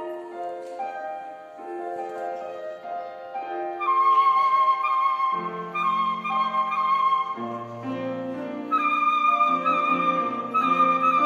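Concert flute playing a classical melody over piano accompaniment. About four seconds in, the flute climbs to a louder, higher line with vibrato, held over sustained lower chords.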